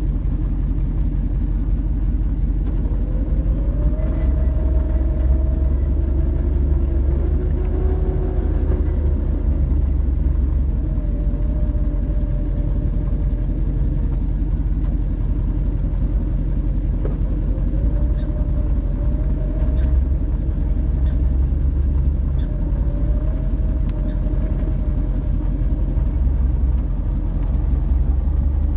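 Off-road 4x4 engine running at low revs, a steady low rumble with a mid-pitched tone that wavers up and down several times as the vehicle crawls down a steep sand slope.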